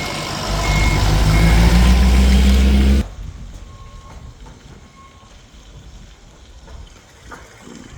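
Forklift engine revving with its pitch climbing while a reversing alarm beeps at a steady pace; the sound cuts off abruptly about three seconds in, leaving quieter background noise with a faint beep or two.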